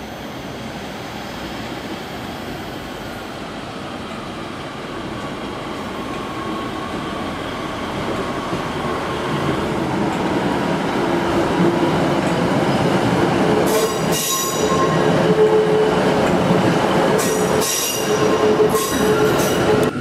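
A ScotRail Class 156 diesel multiple unit running through the station, its engine and wheel noise growing steadily louder as it comes closer. In the last few seconds its wheels squeal several times as they take the pointwork.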